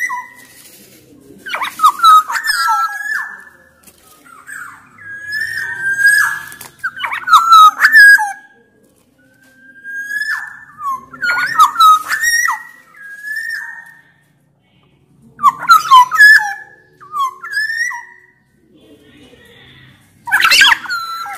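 Black-naped oriole singing loud whistled phrases of sliding, mostly falling notes with short higher notes mixed in. About five bouts of song come a few seconds apart.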